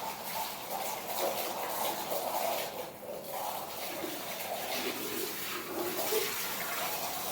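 Buffalo being milked by hand: repeated jets of milk squirting into a metal pail.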